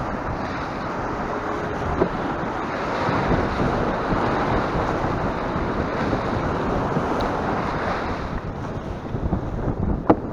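Strong wind buffeting the microphone over choppy sea: a steady rushing noise, with a few sharp knocks near the end.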